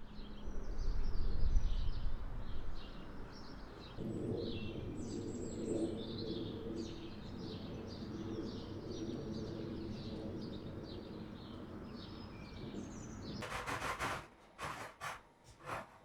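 Small birds chirping and twittering in quick, repeated short calls over a steady low background rumble, with a louder low rumble in the first couple of seconds. Near the end the birds stop and a brief rustle is followed by a few clicks.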